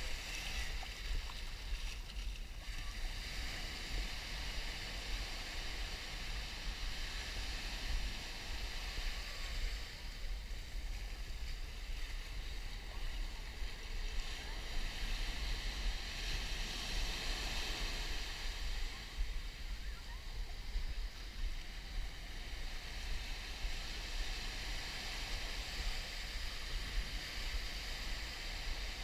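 Surf washing on a beach, its hiss swelling and easing every few seconds, with a steady low rumble of wind on the microphone.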